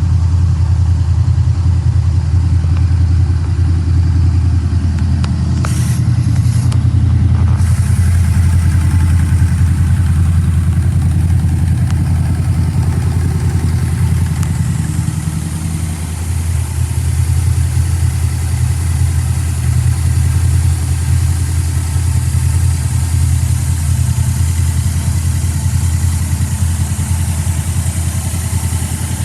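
Yamaha V-Max V4 motorcycle engine idling steadily.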